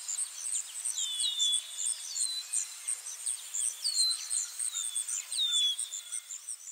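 Birds calling in a pine forest: short high whistles that slide down in pitch, repeated about once a second, over a fast, steady run of very high chirps.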